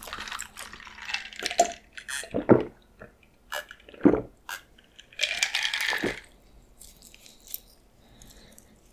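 Close-miked eating of birria tacos: crunchy, wet chewing and biting in irregular bursts, with sharper crunches about 2.5 and 4 seconds in. It fades to faint chewing over the last few seconds.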